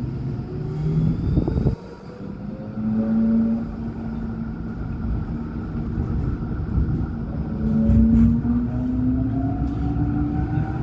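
Alstom NGT8D low-floor tram heard from inside: wheels rumbling on the rails under the whine of the traction motors. The whine holds a steady pitch, then rises through the second half as the tram accelerates. A brief loud noise just before 2 s is followed by a sudden dip in level.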